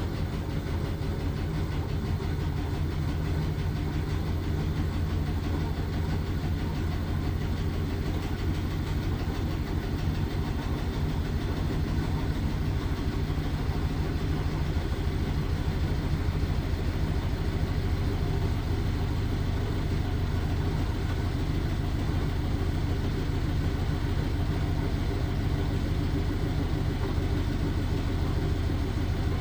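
LG washing machine running with a steady low drone throughout.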